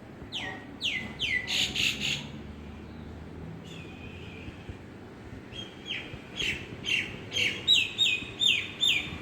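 A bird calling in two bouts of quick, repeated notes, each note sliding down in pitch: about six notes in the first two seconds, then after a pause a second, faster run of about a dozen notes ending shortly before the end.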